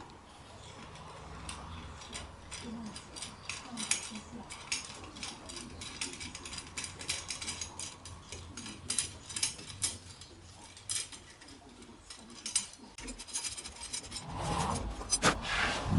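Ratchet wrench clicking in irregular runs, turning the centre bolt of a bearing puller to draw the rear bearing off a gearbox mainshaft. Near the end a louder, rougher mechanical noise starts.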